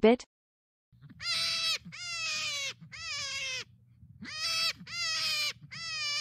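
Rabbit crying: a series of high-pitched cries, each falling a little in pitch and lasting under a second, repeated about once a second.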